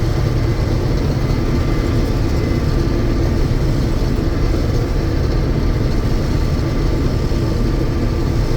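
John Deere 6620 Turbo combine running steadily under load while harvesting soybeans. Its turbo diesel engine and threshing machinery make a constant low drone with a few faint steady whining tones above it.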